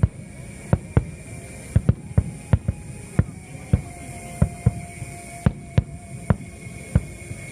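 Firework shells bursting in quick, irregular succession, about two bangs a second.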